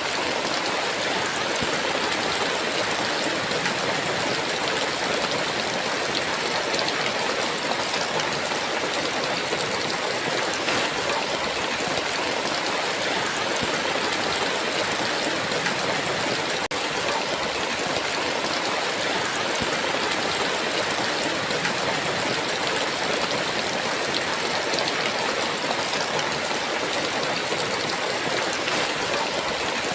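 Heavy, steady downpour of rain: a dense, even hiss of rainfall with no thunder and no single drops standing out.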